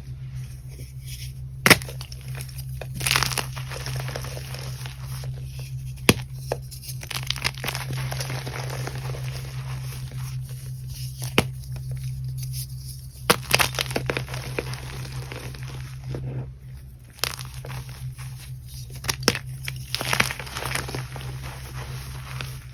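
Gym chalk being crushed, crunching irregularly with several sharp snaps, over a steady low hum.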